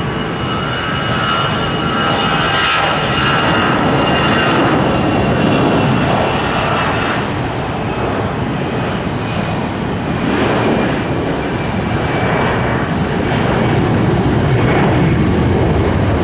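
Jet airliner's engines running loud and steady, a broad rushing noise with a high whine on top that fades about halfway through.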